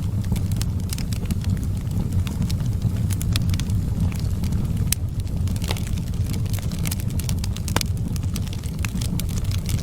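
Fire burning in a fireplace: a steady low rumble with frequent sharp crackles scattered irregularly through it, a few louder snaps near the middle and later on.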